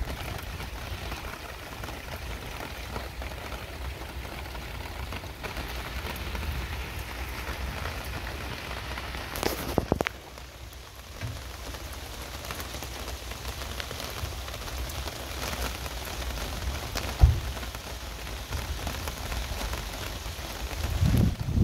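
Heavy rain falling steadily, an even hiss, with a short louder burst about nine seconds in and a single sharp low thump near seventeen seconds.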